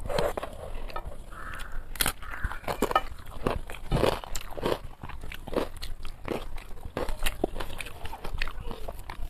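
Chewing and mouth sounds of a person eating rice by hand: irregular wet smacks, clicks and small crunches, with fingers working the rice on a plate.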